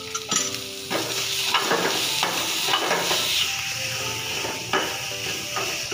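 Grated potato and mixed vegetables frying in a pan over a gas flame, sizzling, while a steel ladle stirs and scrapes them against the pan with scattered clicks.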